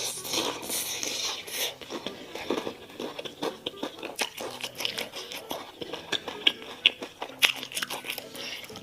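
Close-up eating sounds: repeated crunchy bites and chewing of fried chicken, a run of sharp crackles.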